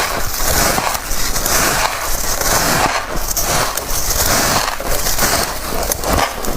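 Close-miked crunching of soft, chunky white freezer-frost ice being bitten, bite after bite, a dense crackle that swells and eases every second or so.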